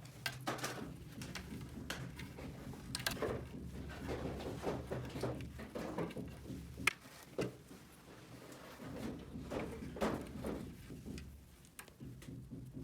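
Small plastic toy pieces being handled and set down: an irregular string of light clicks and taps, the sharpest near the middle, over a faint steady low hum.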